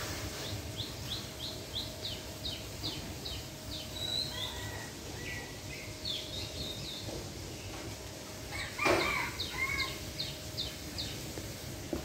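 Small bird chirping in quick runs of short, high, falling notes, about three a second, over steady outdoor background noise, with a louder, lower call about nine seconds in.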